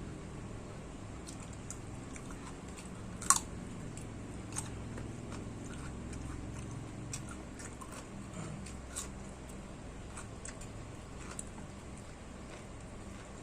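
A person chewing and biting food close to the microphone, with wet mouth clicks scattered throughout and one sharp, loud click about three seconds in.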